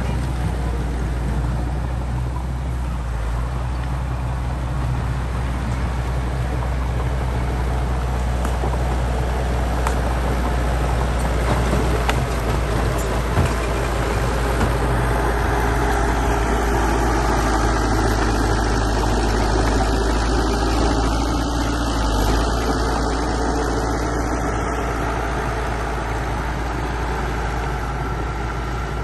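Bulldozer's heavy diesel engine running steadily under load, with a deep low hum and a few faint clanks.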